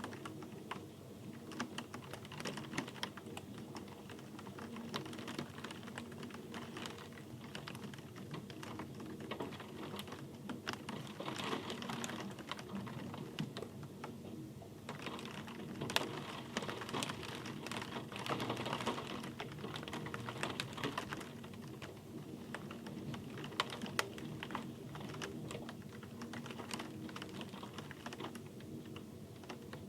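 Rain falling steadily, its drops ticking and pattering irregularly over a constant low rumble, growing denser for a few seconds around the middle.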